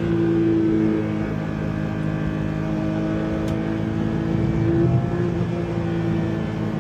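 Porsche 911 flat-six engine running at steady, nearly constant revs, one held note throughout.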